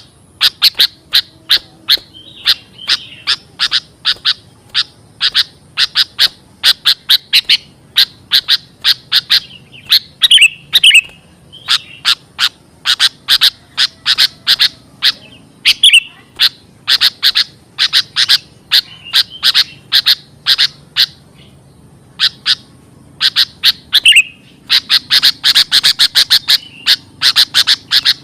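Sooty-headed bulbul (kutilang) calling in a lure recording: loud, rapid runs of sharp chip notes, broken by short pauses and the odd short warbled call.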